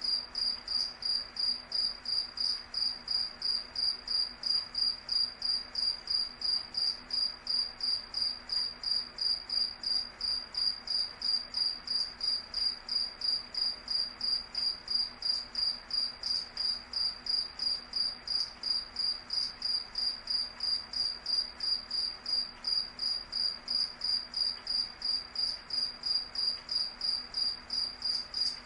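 Cricket chirping steadily, one high-pitched chirp repeated evenly about three times a second.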